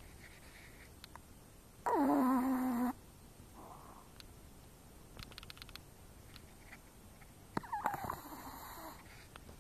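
A small dog snoring loudly in its sleep. About two seconds in there is one loud snore of about a second that drops in pitch at its start and then holds a steady tone. Soft breaths follow, and a second, rougher snore comes near the end.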